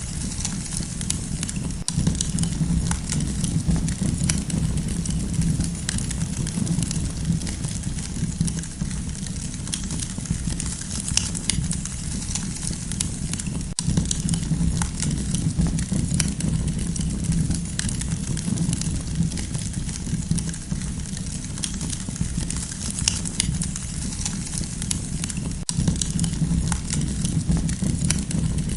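Campfire burning, with frequent sharp crackles and pops of the wood over a steady low rumble.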